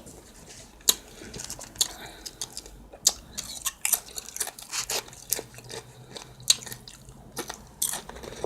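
A person chewing and eating taco salad close to the microphone, with irregular sharp clicks and crunches and an occasional light knock of a utensil on a plate.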